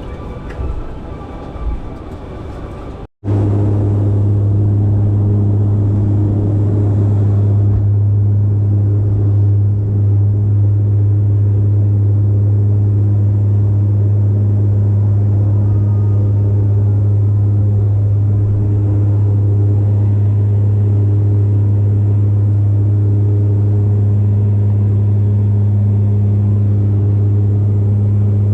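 A steady low drone from a moving vehicle, a strong hum with its overtones held at one pitch, which starts after an abrupt cut about three seconds in.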